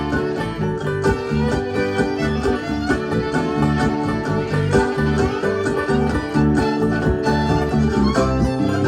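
Acoustic bluegrass band playing an instrumental break, with string instruments picking quick, busy notes over a steady driving rhythm.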